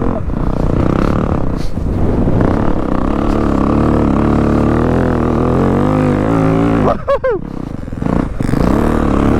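Dirt bike engine running under throttle through deep snow, its pitch wavering with the throttle. About seven seconds in, the engine note drops sharply and sweeps up and down as it bogs and nearly stalls, then it picks back up.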